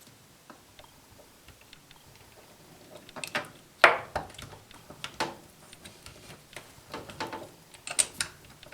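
Sharp metal clicks and knocks of a fridge door hinge and its screws being fitted by hand, starting about three seconds in, the loudest knock a second later, then a few more scattered clicks.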